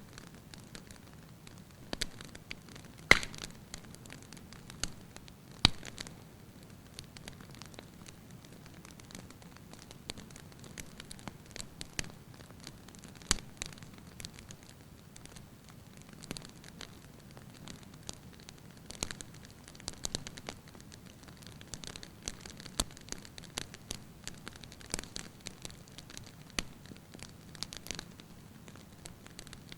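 Wood fire crackling and popping in a fireplace, a low steady hiss under frequent sharp snaps, with a few louder pops in the first half.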